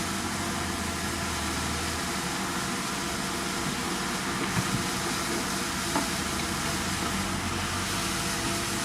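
Heavy diesel engine of earthmoving machinery running steadily, with an even hiss over it and a couple of short metallic knocks about halfway through.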